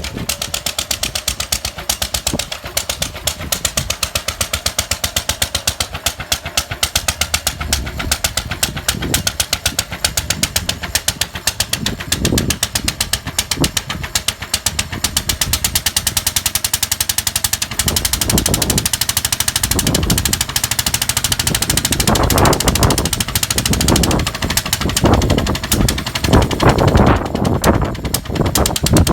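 Lister stationary engine running with a fast, even knocking beat. Louder, uneven noise joins over the last several seconds.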